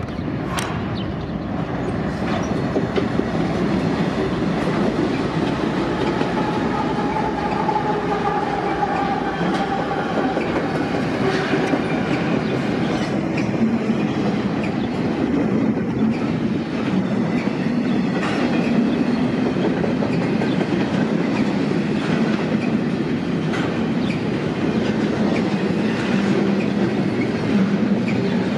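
A BNSF intermodal freight train passing close by: a lashup of several diesel locomotives goes by first, then a long string of double-stack container cars rolls past, the wheels running steadily on the rails.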